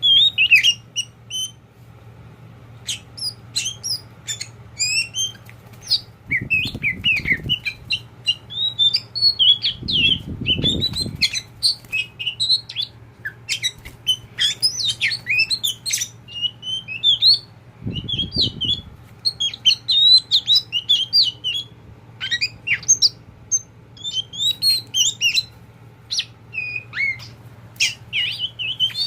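Oriental magpie-robin (kacer poci) singing: quick, varied chirps, whistles and short squawky notes in close succession, with a few brief pauses. Three short bursts of low rumbling noise come in between, over a faint steady low hum.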